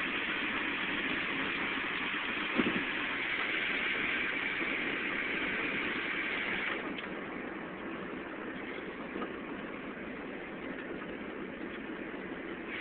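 Steady road and engine noise inside a car's cabin, with a short knock about two and a half seconds in. About seven seconds in, the hiss drops and the cabin goes quieter.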